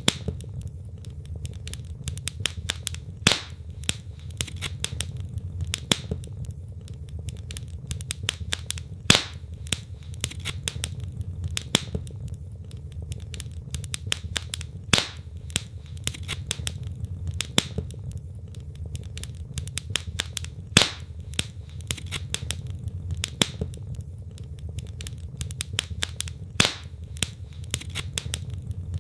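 Wood logs burning in a fireplace: a steady low rumble of the fire under continual irregular crackles and pops, with a few louder sharp snaps every few seconds.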